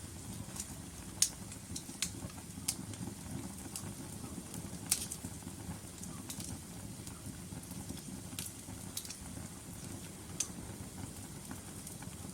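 Logs burning in a fireplace: a steady low rumble of flames with sharp crackles and pops every second or so, the loudest just over a second in.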